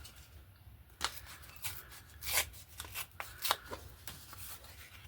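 Paper and card pieces being handled and laid down on a board book page: a run of short, sharp rustles and taps, most of them between about one and four seconds in.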